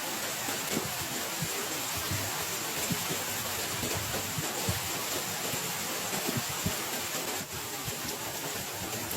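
Heavy rain falling steadily, with irregular heavier drops landing as soft low thuds.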